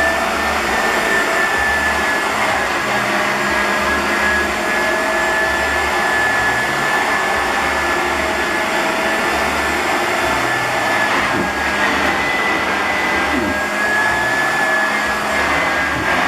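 Clarke Alto 530 upright vacuum cleaner running steadily with a high motor whine as it is pushed back and forth over carpet, its deeper sound swelling and fading with each stroke.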